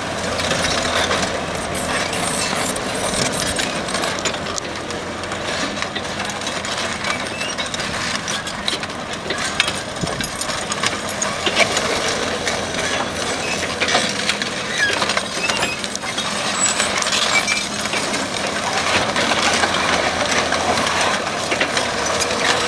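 Diesel engine of a 1985 Kubota KH-170L mini excavator running steadily, with many sharp clicks and knocks of the machine's metal parts through it.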